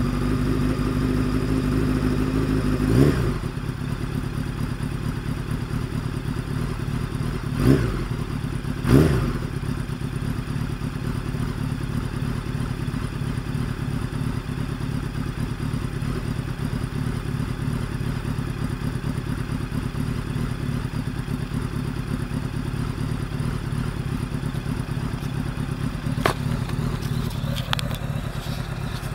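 1999 Honda CBR900RR Fireblade's inline-four engine idling, with three short throttle blips about three, eight and nine seconds in. A sharp click comes near the end.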